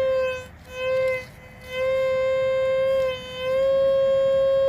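Teknetics T2SE metal detector's target tone: a mid-pitched electronic tone sounding as a few short beeps, then held steady for several seconds, as the coil passes over a target reading in the nickel range, which turns out to be a nickel.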